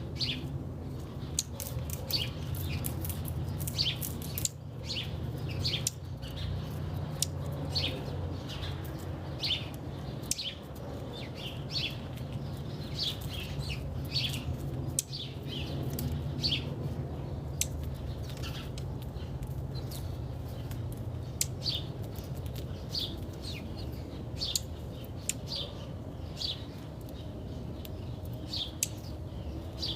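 Small birds chirping: short, high chirps repeating about once or twice a second, over a steady low rumble.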